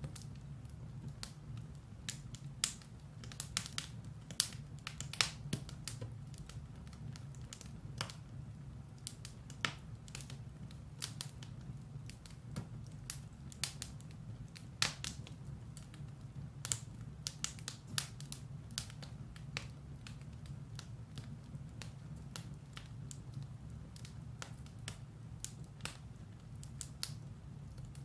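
Firewood burning in a fireplace: irregular sharp crackles and pops over a low steady rumble of the fire.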